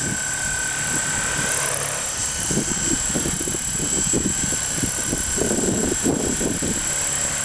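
Large battery-electric RC coaxial helicopter in flight: a steady high motor whine over the even whir of its twin rotors.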